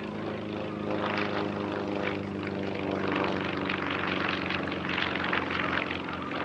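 Piston engine of a propeller-driven aerobatic aircraft running steadily, growing somewhat louder about a second in.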